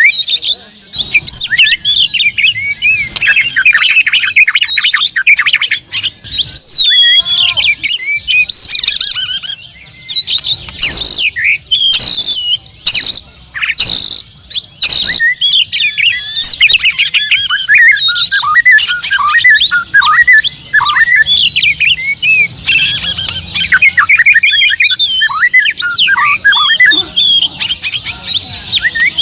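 Oriental magpie-robin singing a long, varied run of quick whistled phrases. About halfway through it gives a series of about five harsh, rasping notes, roughly one a second.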